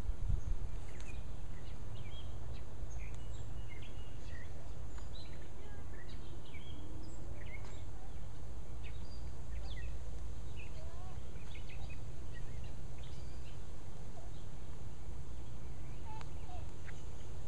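Birds calling outdoors: scattered short chirps and calls, some sliding in pitch, over a steady low rumble.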